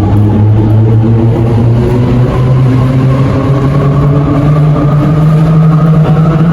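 Electric train accelerating away from the platform, its traction motors giving a loud, steady tone that rises slowly in pitch.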